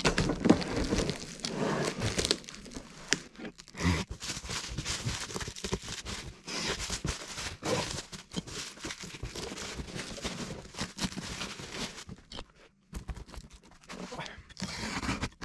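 Packaging being torn and crumpled in irregular rustling bursts, with short sharp crackles, as a cast-iron fireplace part is unwrapped.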